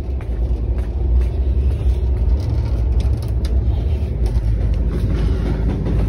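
Steady low rumble of a moving passenger train heard from inside the coach, with a few faint clicks and rattles over it.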